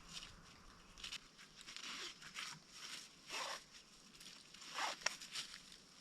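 Irregular rustling and scraping: a string of short swishes, the loudest about three and a half and five seconds in.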